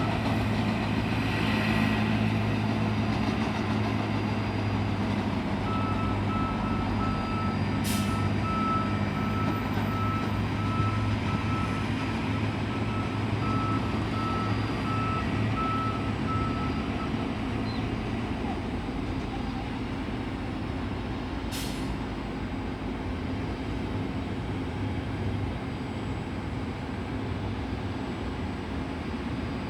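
A vehicle's reversing beeper beeping steadily for about ten seconds over a steady engine drone, with two short clicks.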